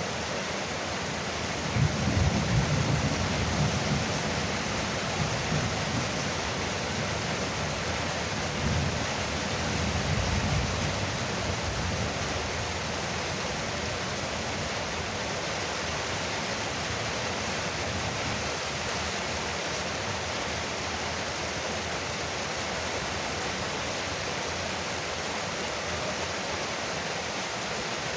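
Heavy rain falling steadily on a veranda roof, with two low rumbles in the first half.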